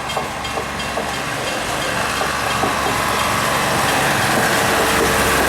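A train running close by: a loud, rushing rumble that grows steadily louder, with a quick, regular clicking of wheels over rail joints in the first half.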